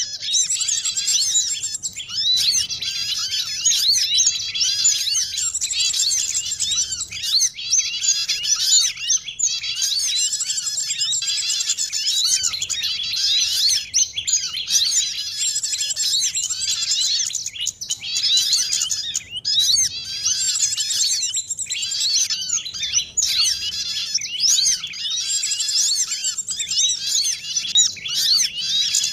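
Bird-luring (pikat) call recording: a dense, unbroken chorus of many small songbirds chirping and twittering over one another in quick high notes.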